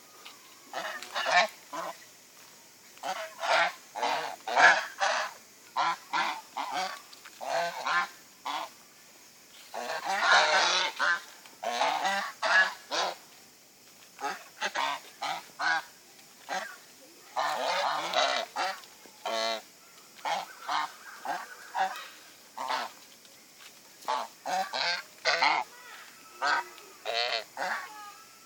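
A flock of domestic geese honking, with repeated short calls all the way through. The calls crowd together into noisy bursts of many birds at once about a third of the way in and again a little past the middle.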